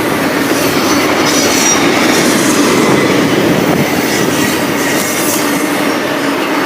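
A Norfolk Southern freight train rolling past, a loud, steady rumble of steel wheels on the rails.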